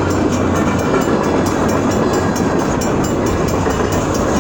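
Train passing close by: a loud, steady rumble of wheels on the rails.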